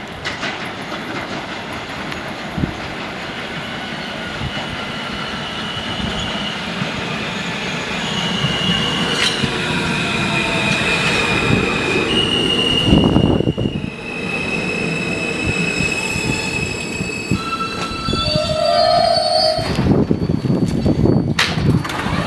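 New York City subway train running into the station, its wheels squealing high and long on the rails and the rumble growing louder. Near the end, stepped motor tones are heard as it brakes to a stop.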